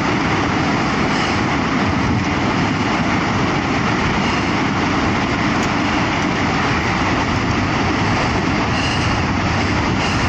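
Steady, loud rushing noise of wind and sea aboard a fishing boat in a heavy swell, with no breaks or distinct impacts.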